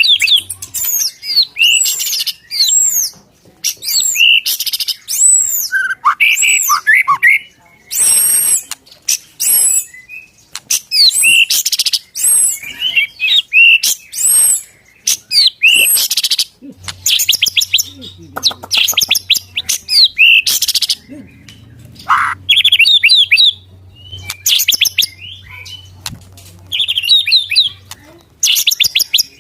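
White-rumped shama (murai batu) singing loudly in fast, varied phrases: arching whistles and rapid trills in bursts separated by short pauses. A faint low hum runs underneath from about halfway to near the end.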